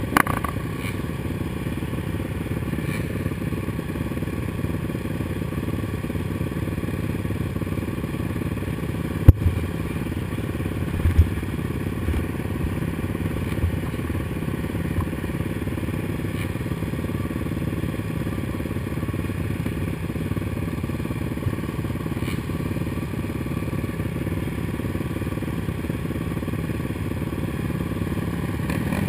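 Suzuki LT-R450 quad's single-cylinder four-stroke engine running steadily under way on a motocross track, with sharp knocks about nine and eleven seconds in.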